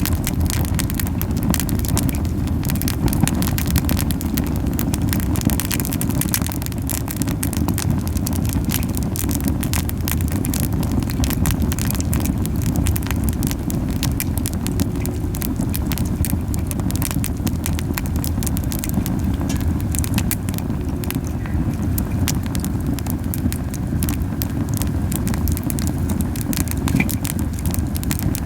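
Camellia-wood campfire burning very hot: the flames make a constant low puffing rumble, with frequent sharp crackles and pops from the burning wood throughout.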